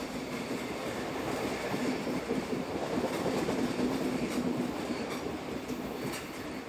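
ETR 610 Pendolino electric train running past on a curve: a steady rumble of wheels on rails with a low, even hum, swelling to its loudest about halfway and easing slightly near the end.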